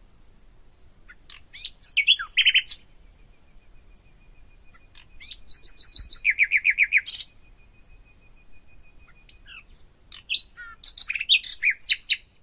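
Songbirds singing in three bursts of high chirps and fast trills, each lasting a second or two, with a faint thin steady whistle held between them.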